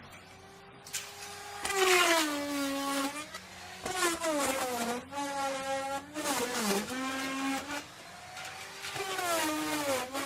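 Electric wood router running at high speed and cutting into wood in a series of passes, about every two seconds. The motor's whine dips in pitch as the bit bites and bogs under load, then climbs back as it frees, with a burst of cutting noise at each bite. The loudest cut comes about two seconds in.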